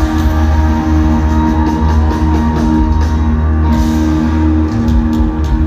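Live rock band playing amplified through a PA: held electric guitar and keyboard tones over heavy bass, with drum hits.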